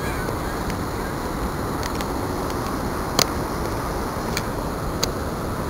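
Waterfall rushing steadily, with a few sharp clicks, the loudest about three seconds in.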